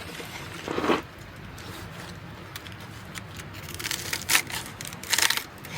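A few short rustling, scraping handling noises, one about a second in and two near the end, over a faint steady low background.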